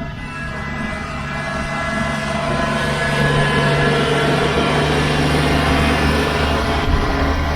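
Kubota BX compact tractor's diesel engine running, growing louder over the first few seconds and then holding steady.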